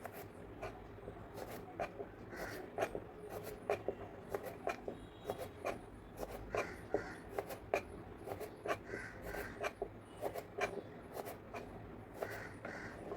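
Light, irregular taps and scrapes of kitchen utensils, a few each second.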